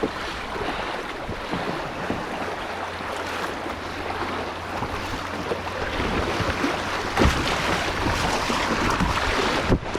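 Kayak moving down a river: a steady rush of flowing water around the boat, with a few brief sharper sounds in the second half.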